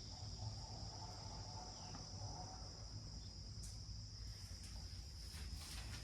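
Crickets chirring steadily in a high, unbroken drone over a low rumble, with a few faint clicks in the second half.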